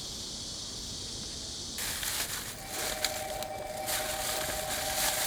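Train horn sounding a long, steady two-note chord over an outdoor hiss that grows louder about two seconds in.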